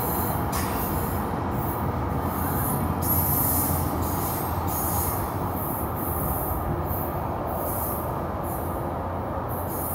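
Passenger train moving on the rails, a steady loud rumble of wheels and running gear with short high hissing flares every second or so, easing slightly over the last few seconds.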